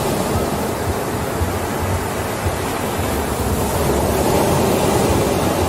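Steady, loud rushing noise with no distinct events, like wind, surf or static.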